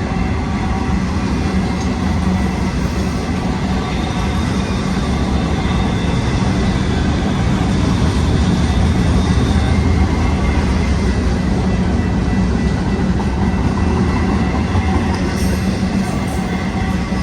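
Intermodal container freight train rolling past close by, a steady loud rumble of steel wheels on rail with some clickety-clack.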